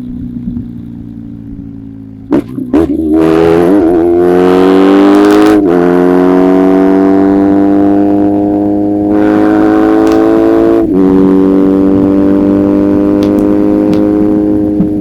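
A 1994 BMW R1100GS's boxer twin running through an Akrapovic titanium exhaust under hard acceleration. The engine note is steady at first, then changes abruptly about two and a half seconds in and climbs in pitch. The pitch drops at a gear change about five and a half seconds in, climbs slowly again, and drops at another shift near eleven seconds.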